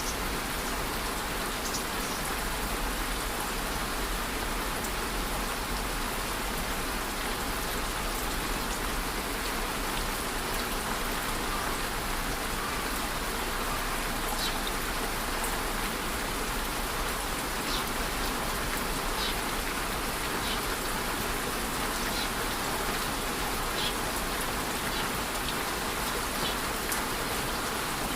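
Steady rain falling and pattering on a surface, an even hiss with scattered individual drops ticking through it.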